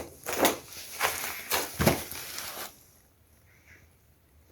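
A handful of short scuffing and rustling noises, stopping about three seconds in.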